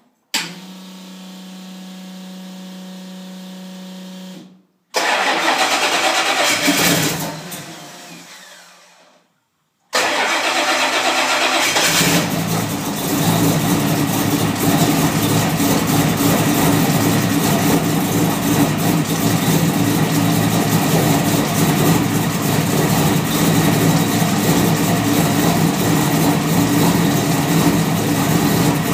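Car engine cold-started. A steady hum lasts about four seconds. Then the engine cranks and fires, fades and dies out, and on a second try starts and settles into steady running while its cold-start tune is being worked out.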